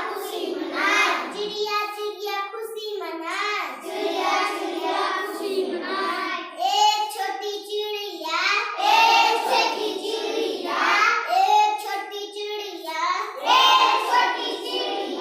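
A child singing a nursery rhyme in a high voice, unaccompanied.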